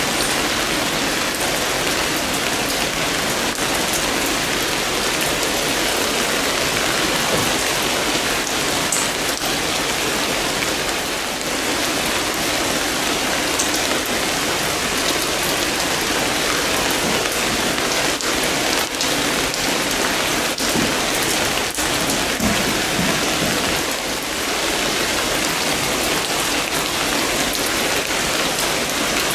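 Steady rain falling, with scattered sharper drips and drops standing out now and then.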